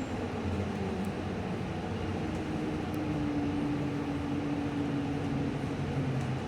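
Cabin sound of a 2018 New Flyer Xcelsior XT40 electric trolleybus under way: a steady hum from its Vossloh Kiepe electric drive, with a held tone over road and rolling noise. This is the bus the rider calls weird sounding.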